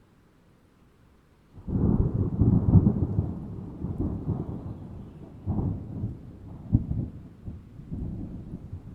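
Thunder: after a moment of near quiet, a sudden clap about a second and a half in breaks into a deep rolling rumble, with further cracks rising out of it twice more.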